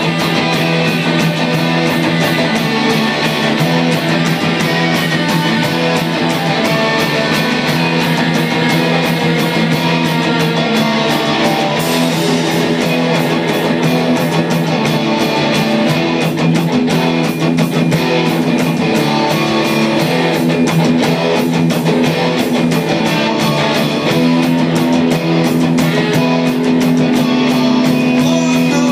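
Live heavy metal band playing: electric guitars holding chords over a fast, even drum beat, loud and without a break.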